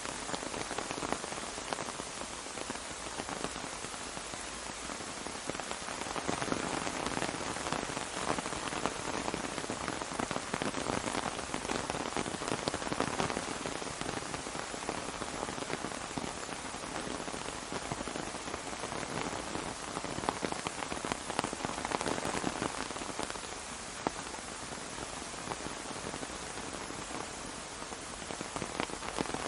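Steady rain falling on an umbrella overhead: a dense, even hiss of countless small drop impacts that swells and eases slightly.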